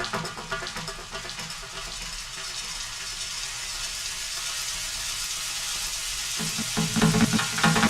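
Steady hiss of food sizzling as it fries in a pan, with music coming back in near the end.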